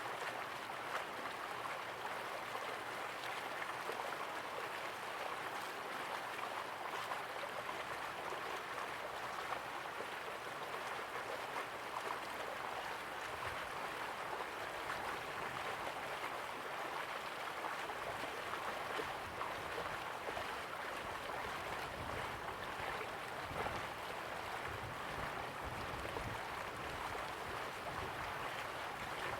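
Slow-flowing river water, a steady even rush of moving water, with a faint low rumble added in the second half.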